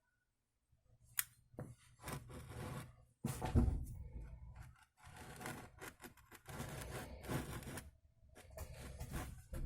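Hand work during a driveshaft U-joint repair: a single sharp click, then several stretches of scraping and rubbing, each a second or two long, with a dull knock about three and a half seconds in.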